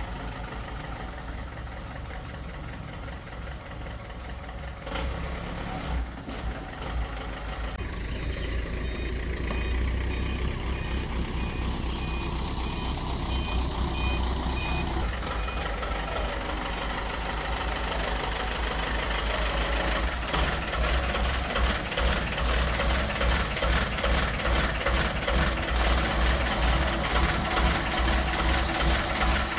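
A vehicle engine running with a steady low rumble, with a string of short evenly spaced beeps about halfway through; the engine grows louder and more pulsing in the last third.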